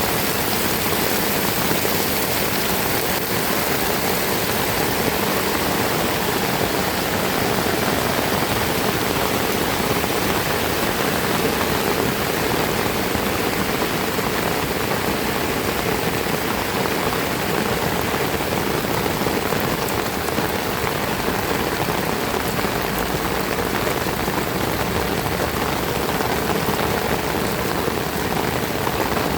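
Heavy rain falling steadily, a dense, even hiss with no breaks or changes.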